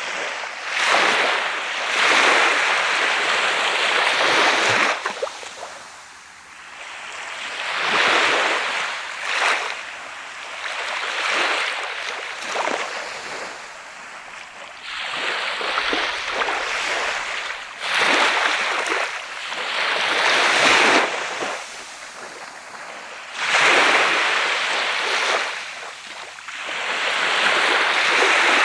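Sea of Japan waves breaking and washing up a sandy beach. The surf swells and falls back in repeated surges a few seconds apart, with quieter lulls between.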